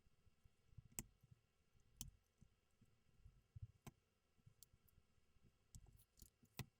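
Plastic LEGO pieces clicking as they are handled and snapped together, a few faint, sharp clicks spread over several seconds.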